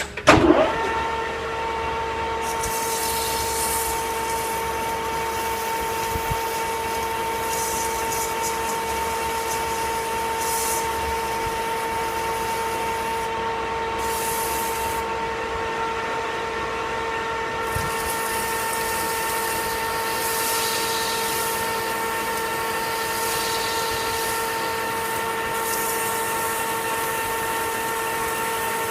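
A metal lathe starts and spins up, then runs steadily with a constant motor-and-gear whine. Over it come intermittent hissing scrapes of a hand file deburring the spinning 1018 cold-rolled steel part.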